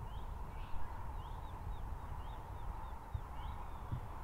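Small birds chirping, about a dozen short quick chirps, over a steady low background rumble.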